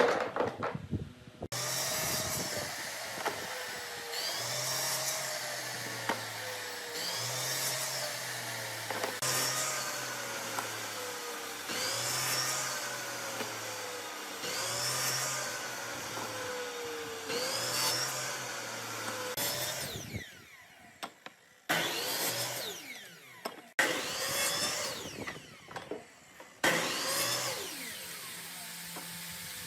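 A power tool running on wood, its pitch rising and falling in a regular cycle about every two and a half seconds, with several abrupt cuts between takes in the second half.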